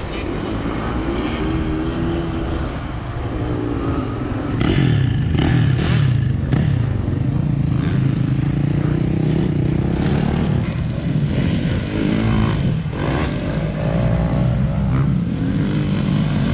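Motocross dirt-bike engines revving, their pitch rising and falling over and over, over a steady low rumble.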